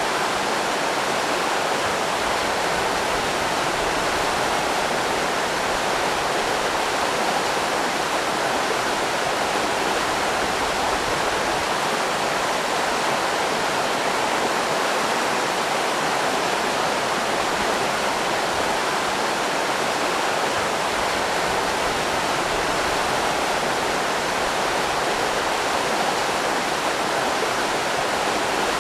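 River rapids: fast water rushing steadily over rocks, an even unbroken rush.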